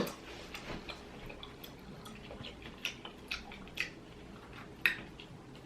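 Boiled crawfish being cracked and peeled by hand: faint wet squelches with a few sharp little shell cracks scattered through.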